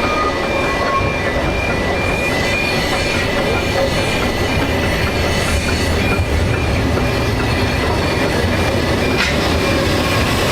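Narrow-gauge railway train running, a steady rumble and rattle of wheels on track with a thin high wheel squeal.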